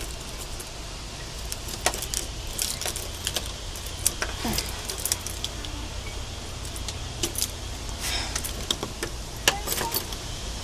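A bunch of keys jangling, with many short, sharp metallic clicks and clinks as a key is worked at a stiff lock to free a bike. A steady low rumble runs underneath.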